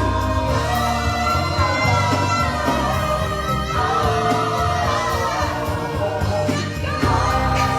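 Gospel choir singing in sustained, held harmonies over instrumental accompaniment with a steady bass line.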